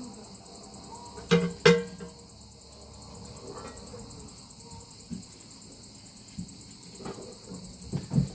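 Crickets chirping steadily in a fast pulsing trill, with two short ringing knocks about a second and a half in.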